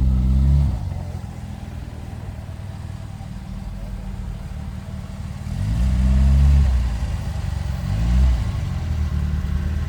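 A car engine running close by, its revs rising and falling about halfway through and again a couple of seconds later.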